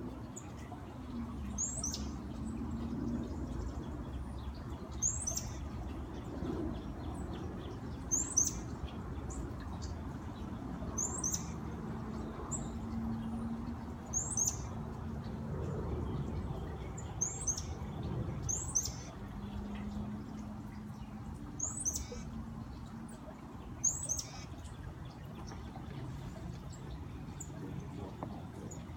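A songbird repeating a short, high, downward-sliding call every second or two, over the steady running water of a backyard fountain.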